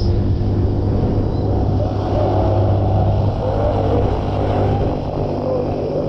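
Fairground ride running, heard from on board: a steady low machine hum under a rushing noise.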